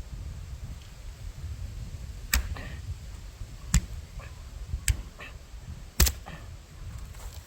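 Firewood popping and cracking in a wood stove fire: four sharp pops at uneven intervals over a low steady rumble.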